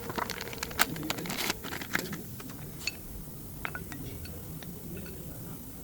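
Metal tools and parts clinking and tapping: scattered sharp clicks, busiest in the first two seconds and sparser after, with a faint scrape.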